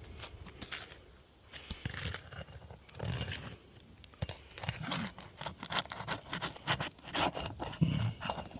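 Metal roofing tool scraping and clinking against asphalt 3-tab shingles as they are pried up to work the nails loose, in quick irregular strokes that get busier after about three seconds.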